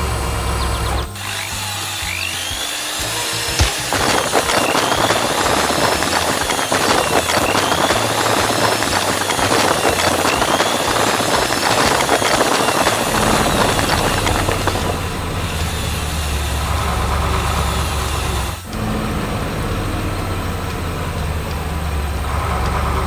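Machinery sound effects: a heavy engine running low, overlaid from about four to thirteen seconds in by a loud rasping, grinding noise like wood being sawn or crushed, with a few rising-and-falling whines.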